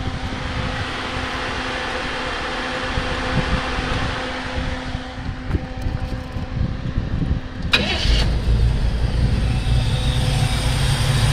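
Old truck's engine cranking on the starter for about eight seconds, then a sharp crack as it catches and settles into running with a steady low rumble. It is the truck's first start after being put back together, fed by an electric fuel pump wired straight to the battery.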